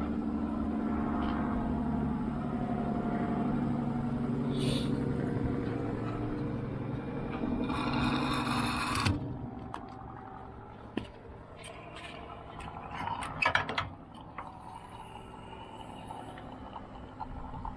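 Gas-station pump filling a motorcycle fuel tank: a steady hum with fuel rushing through the nozzle, cutting off suddenly about nine seconds in. Then quieter clicks and knocks follow as the nozzle is worked to top off the tank.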